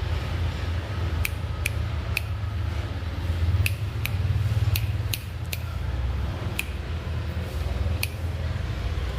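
About nine sharp, snipping clicks at irregular intervals, from a caged sooty-headed bulbul moving about its cage and drinking cup. A steady low rumble runs underneath.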